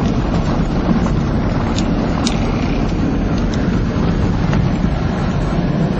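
Steady low vehicle rumble mixed with wind noise on the microphone, with a few faint ticks.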